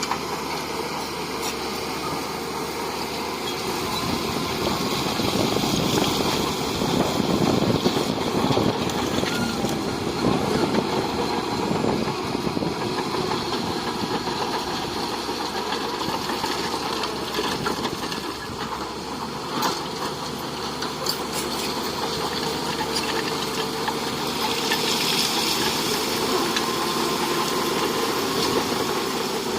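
Heavy earthmoving machinery's diesel engine running steadily, louder for several seconds around a quarter of the way in, with a few sharp clanks about two-thirds through.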